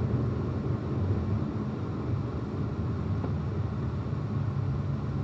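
Car in motion heard from inside the cabin: a steady low engine and road drone.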